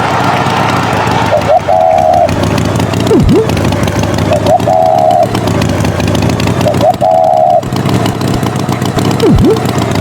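Cartoon tractor engine running steadily. A short warbling tone repeats about every three seconds, and a quick swooping glide comes twice.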